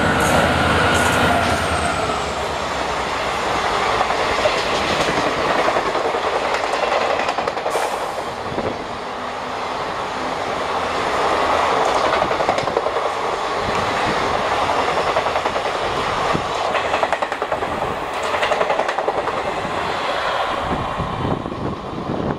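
Express train passing at speed through a station: a locomotive goes by, then a long rake of coaches rushes past with steady wheel clatter over the rail joints, and the sound eases as the tail draws away near the end.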